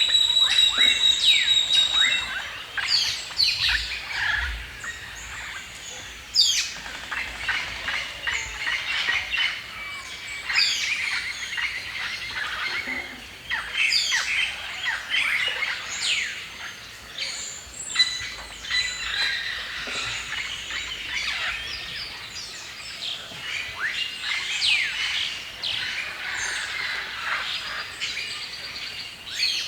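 Several birds singing and chirping at once in a forest dawn-chorus mix, many short sweeping calls overlapping throughout, with a held high whistle at the start.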